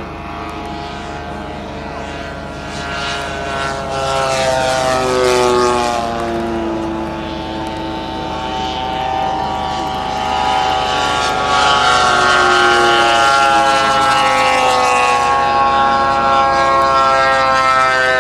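Propeller engine of a large radio-control model plane in flight, its pitch rising and falling as it flies around and passes by, getting louder about four seconds in and again later on.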